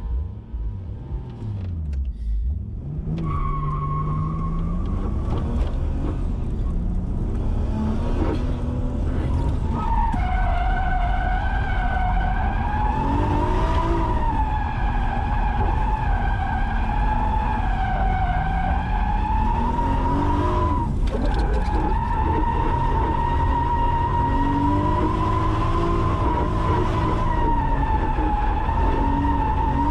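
Drift car at full drift: the engine revs rise and fall while the rear tires squeal in a long, wavering screech that sets in about a third of the way through and holds to the end.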